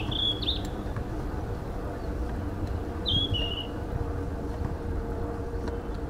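A bird chirps twice: a short falling call right at the start and another about three seconds in. Underneath is the steady low rumble of a bicycle rolling along a paved path.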